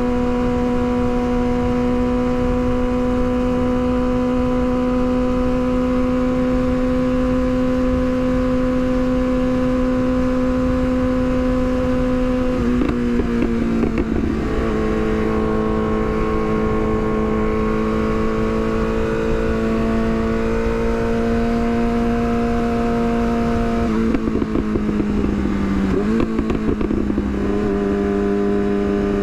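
Yamaha R6 inline-four sport bike engine cruising at a steady high-pitched note with wind rushing over the microphone. About 13 seconds in, and again around 25 seconds, the note breaks briefly and then settles lower, as with an upshift.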